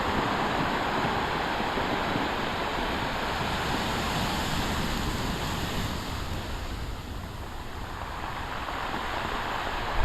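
Storm-driven waves breaking and washing on the shore, a steady rush of surf that eases a little around seven seconds in and builds again near the end.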